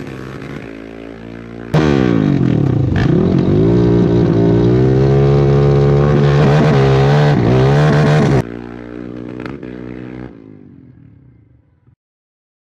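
Sport quad engines at full throttle in a street drag race, running quietly at first, then suddenly loud about two seconds in, the pitch climbing and dropping back several times through the gears before fading away.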